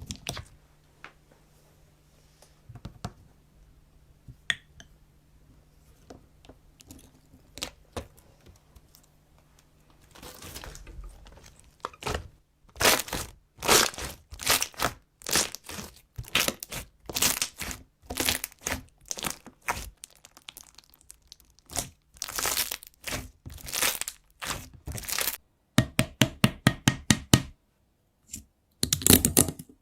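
Slime being worked, crackling and popping. A few scattered faint clicks at first, then from about twelve seconds in a long run of rapid, sharp crackles, with a short pause and a few more near the end.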